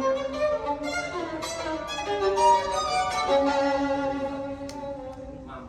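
Violin music played back over a hi-fi loudspeaker system, a melody of held notes that grows quieter near the end.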